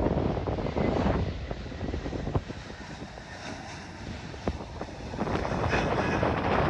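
Gusty wind buffeting the microphone over distant aircraft engine noise at an airport. The wind drops off in the middle and picks up again near the end.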